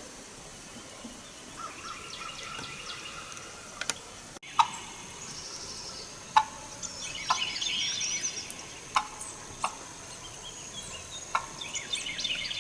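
Wild turkeys calling: about five short, sharp single notes spread over several seconds, over a steady hiss of rain, with small birds chirping faintly.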